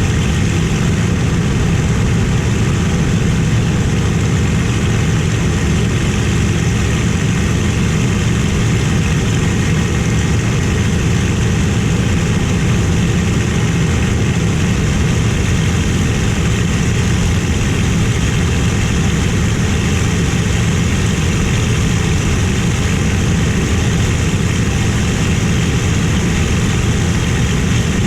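Merlin V-12 fighter engine and propeller running at a steady, unchanging drone, heard from inside the cockpit.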